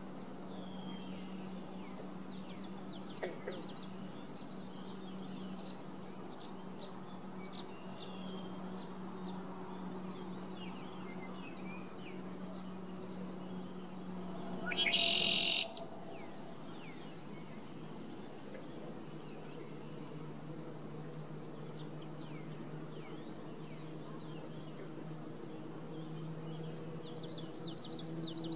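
Songbirds chirping and calling in short, quick notes over a steady low hum that drops in pitch about two-thirds of the way through. About halfway, a louder, harsher sound lasts about a second and a half.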